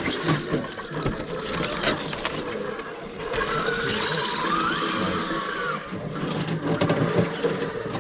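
Small radio-controlled rock-crawler truck's electric motor and geared drivetrain whining under load, with a few sharp knocks in the first two seconds. For a few seconds in the middle, a higher whine comes in and rises in pitch.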